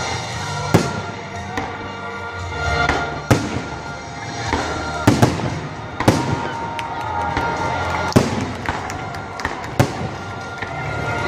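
Aerial firework shells bursting overhead, a sharp bang every second or two, with music in the background.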